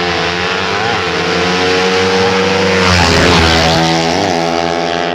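Tuned race motorcycle engines running at high revs, holding a fairly steady pitch with small rises and dips, and a louder rush of noise about three seconds in.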